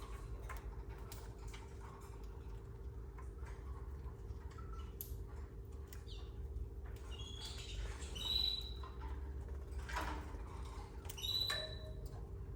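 Canaries giving a few short high chirps, the clearest about eight and eleven seconds in, among scattered light clicks and taps from the cage. A steady low hum runs under it all.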